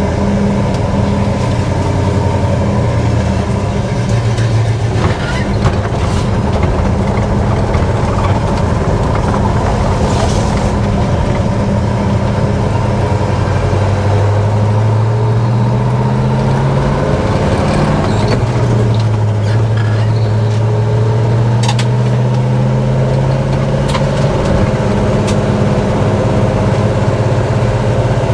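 Pontiac 400 V8 with a mild cam and an aftermarket exhaust, driving under way through a 4-speed manual. The engine note climbs as the car accelerates, drops at a gear change a little past halfway, then holds steady while cruising.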